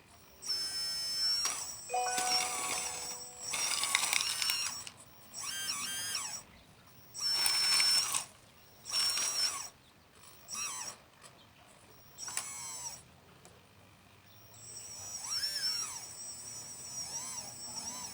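Small electric motors and hydraulic pump of radio-controlled model construction machinery whining in short bursts, about nine in all, each shifting up and down in pitch as the controls are worked.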